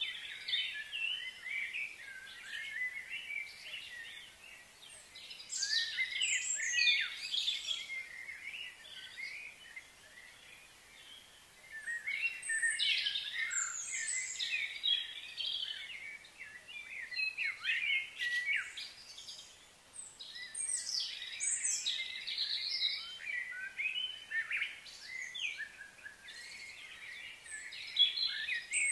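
Many birds chirping and calling at once, short overlapping chirps and quick gliding notes that come in busy waves and ease off between them.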